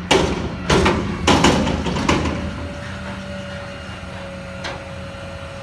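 Autocar ACX front loader garbage truck servicing a commercial bin: a run of five loud metal bangs in the first two seconds as the container is shaken and dumped into the hopper. The bangs give way to the diesel engine running at raised revs under the hydraulic load, with a steady high whine from the hydraulic pump.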